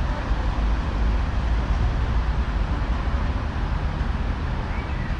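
Steady low rumble of city street traffic, cars and scooters passing, with no single event standing out.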